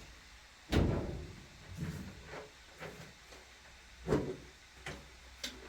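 A series of knocks and thumps, like things being handled or set down, the loudest about a second in and about half a dozen lighter ones after it.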